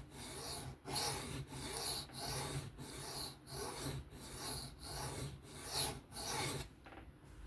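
A folding knife's blade being stroked by hand across a sharpening stone in a steady gritty rasp, about ten passes at roughly one and a half a second, stopping near the end.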